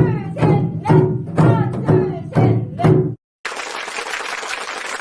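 Janggu drums struck together at about two beats a second over a song. The music stops abruptly about three seconds in, and clapping and applause follow.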